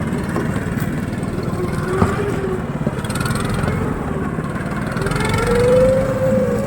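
Single-cylinder engine of a Tofalar tracked motorized snow tow running steadily under load, with one sharp knock about two seconds in and the engine pitch rising about five seconds in.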